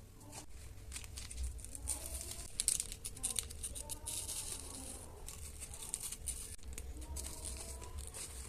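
Plastic wrapping crinkling and rustling as it is handled, in irregular crackly bursts, busiest a couple of seconds in.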